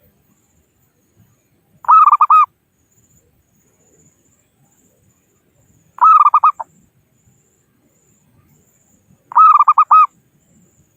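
Zebra dove (perkutut) cooing: three short phrases a few seconds apart, each a quick run of rippling notes, the territorial call used as a lure to draw rival doves in.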